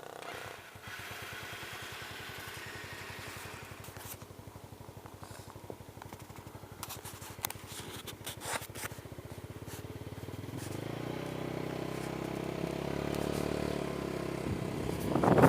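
Small motorcycle engine running with a rapid steady chug, then rising in pitch and level from about ten seconds in as the revs climb. A few clicks and scrapes sound in the middle, and a loud burst comes right at the end.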